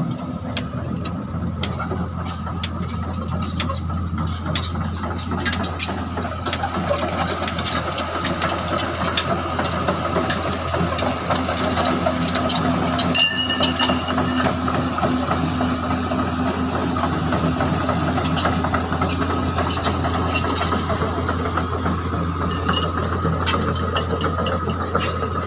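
An engine running steadily at idle, with scattered metallic clanks and taps from work on the truck's front wheel.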